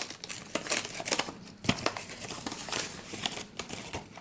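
Wrapped package being opened by hand: irregular crinkling and tearing of the wrapping, with a single soft knock about a second and a half in.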